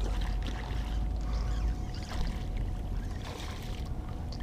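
Water sloshing and lapping around a small fishing boat, with a steady low rumble and a faint constant hum underneath.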